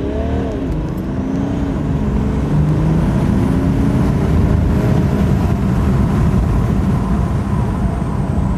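BMW 335d's M57 twin-turbo diesel inline-six accelerating hard uphill, heard from inside the cabin. The engine note climbs, drops once about half a second in, then climbs slowly again at full load.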